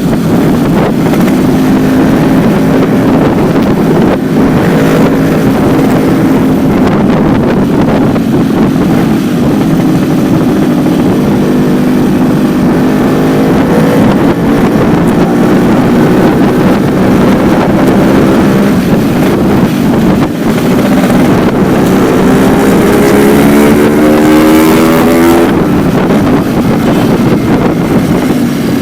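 Exhaust of a 2009 Yamaha RX-King, its 135 cc two-stroke single-cylinder engine running loud and steady through the stock silencer with only the baffle insert in place. Near the end the pitch climbs for a few seconds as the engine revs up, then drops away.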